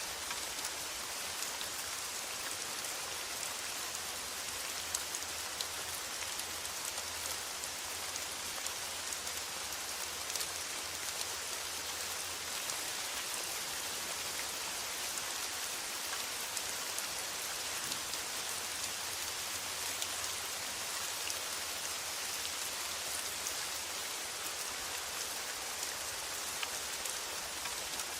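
Steady rain falling on a metal roof: an even hiss with scattered individual drops ticking.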